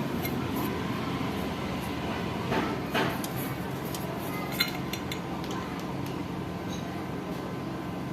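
Light clicks, taps and knocks of hands handling the plastic and metal parts of a DC pedestal fan as it is opened for repair, with one sharp click about four and a half seconds in. A steady low hum runs underneath.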